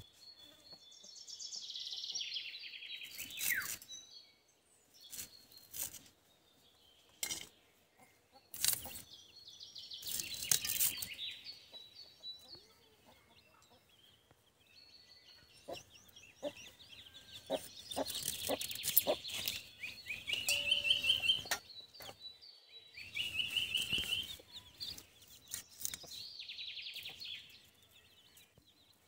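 Birds chirping in several short runs of quick chirps, with scattered sharp clicks and taps in between.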